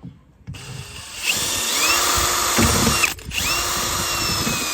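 Electric drill with a 6 mm bit drilling out a rivet. The motor spins up with a rising whine and runs at full speed, stops briefly about three seconds in, then spins up again and runs until shortly before the end.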